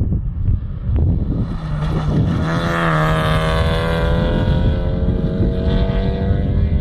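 Rally Honda Civic's engine at high revs as the car slides past on loose gravel. Its pitch climbs, then drops about three seconds in and holds, with wind rumbling on the microphone.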